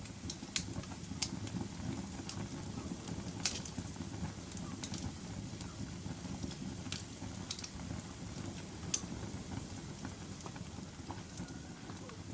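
Wood fire in a fireplace burning with a low steady rumble and irregular sharp crackles and pops, the loudest about three and a half seconds in.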